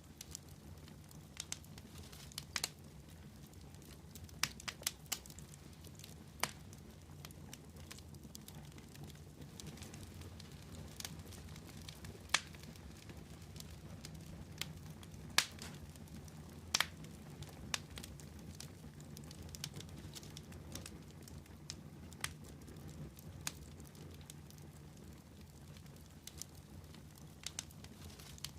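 Fire crackling: irregular sharp pops and snaps, a dozen or so louder ones, over a steady low rumble.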